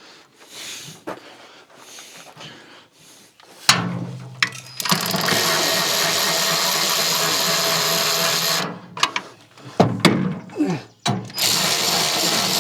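A power drill running bolts in, in two steady runs of a few seconds each, with clicks and a knock in between.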